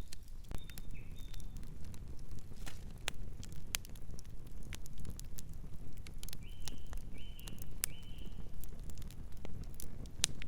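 Campfire crackling with frequent sharp pops and snaps over a steady low rumble. A bird calls briefly about half a second in, then three short, even calls follow in the second half.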